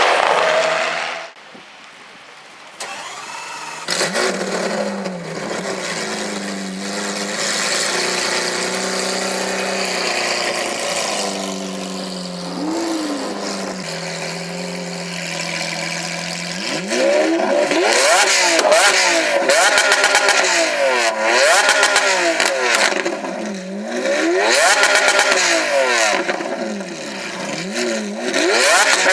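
Lamborghini Aventador's 6.5-litre V12 with Akrapovič exhausts starts up and idles steadily. About halfway through, it is blipped through a run of quick revs that rise and fall, with crackles and pops from the exhaust between them.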